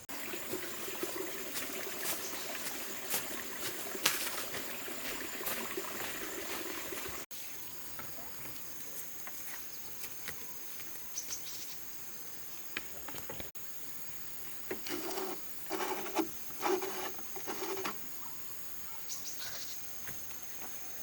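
Insects droning outdoors with one steady high-pitched whine, with scattered clicks and knocks over it and a run of louder knocks near the end.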